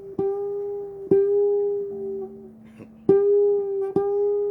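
Bass guitar plucked in its high register: the same ringing note is struck four times, with a lower note held briefly between the second and third strikes.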